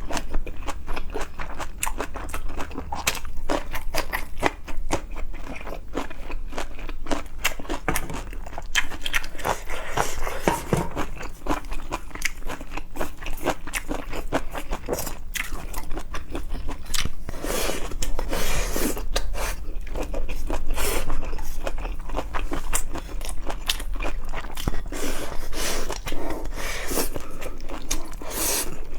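Close-miked eating of seafood: steady, irregular chewing and crunching with wet mouth clicks, some louder crunchy stretches in the second half.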